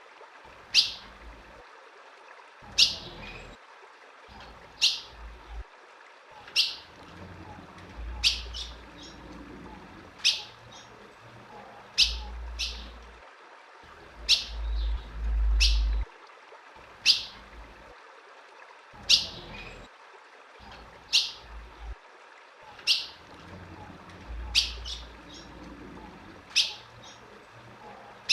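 Female ultramarine grosbeak (azulão) calling: a single short, sharp chip repeated about every two seconds, the kind of call used to get a male azulão excited.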